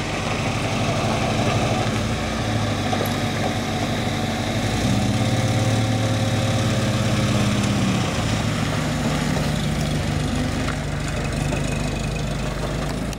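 Classic Lada (Zhiguli) sedan's four-cylinder petrol engine running at low revs as the car manoeuvres and pulls away, its engine note shifting a few times.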